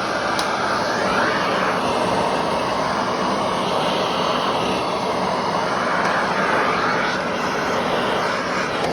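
Vacuum cleaner running steadily, its whine rising and falling a little twice.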